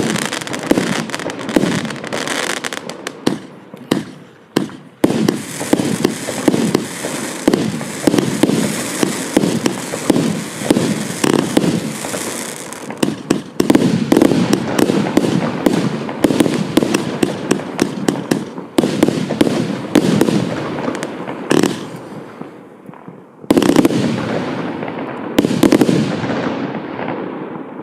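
Primed Pyrotechnics 'Nitro Thunder' firework going off: a rapid, continuous string of shots and bursting bangs. It eases briefly about 22 seconds in, then two big bangs, and the sound dies away near the end.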